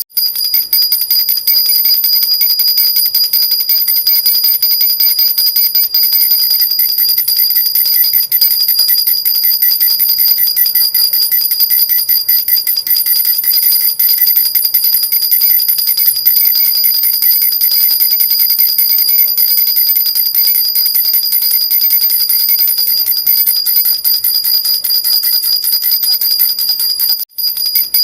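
Jhunjhuna baby rattle shaken continuously, a rapid, steady jingling of small bells with bright ringing tones. It breaks off for a moment near the end and starts again.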